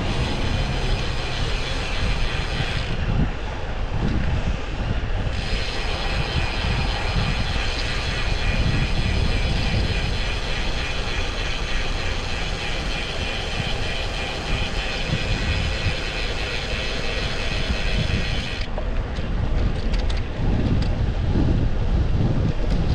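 Rear freehub of a BMC TeamMachine road bike buzzing with rapid pawl clicks while coasting, stopping when pedalling resumes about three seconds in, starting again a couple of seconds later, and cutting out near the end. Low wind rumble on the microphone throughout.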